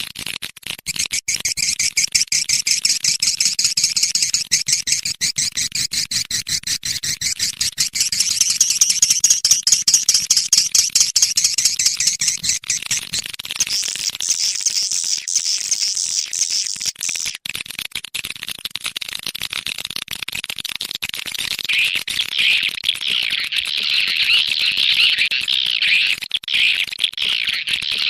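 Swiftlet lure call: a dense stream of rapid, high twittering chirps of edible-nest swiftlets, played as a sound track to draw the birds into a swiftlet house. The chatter changes character partway through, shifting to a lower-pitched twitter in the last third.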